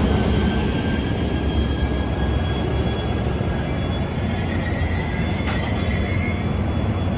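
Amtrak Capitol Corridor passenger train rolling to a stop, its Siemens SC-44 Charger diesel-electric locomotive running with a steady low rumble. Faint thin squealing tones from the wheels and brakes sound over it, and there is one short sharp click about five and a half seconds in.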